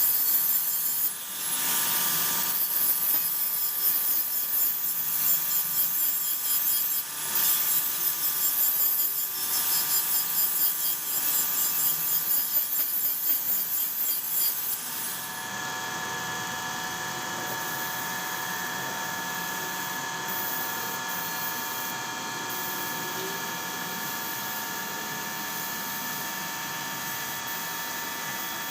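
Hand-held power tool working on a car's body panel, its noise rising and falling in loudness. About halfway through it gives way to a quieter, steady machine hum with a few high steady whining tones.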